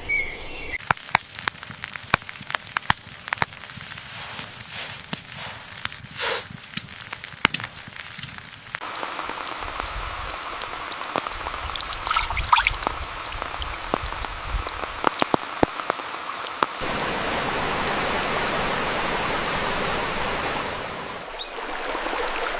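Rain falling: at first many separate drops strike a surface as sharp clicks, then the rain becomes a steady hiss that grows louder, like a heavier downpour, about two-thirds of the way through.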